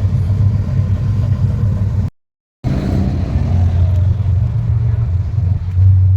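Car engine running with a low, steady rumble. The sound cuts out completely for about half a second about two seconds in, then the rumble resumes.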